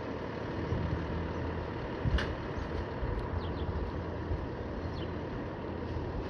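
Emergency vehicle's engine idling steadily with a low hum, and one sharp click about two seconds in.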